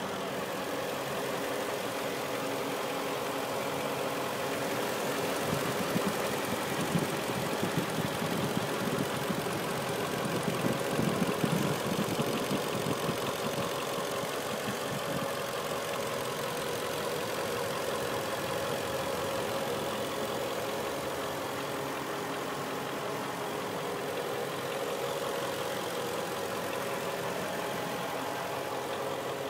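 Mercedes-Benz E55 AMG's 5.4-litre V8 idling steadily, heard up close in the open engine bay.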